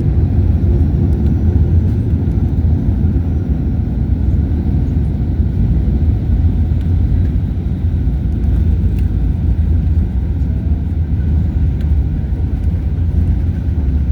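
Steady low rumble of a passenger jet heard from inside the cabin, engine and airframe noise with no change in pitch.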